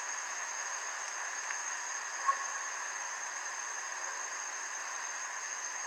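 Steady background hiss with a thin, continuous high-pitched tone running through it, and one soft click about two seconds in.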